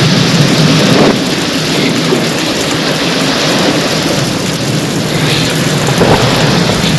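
Rain falling steadily in an even hiss, with a constant low rumble underneath.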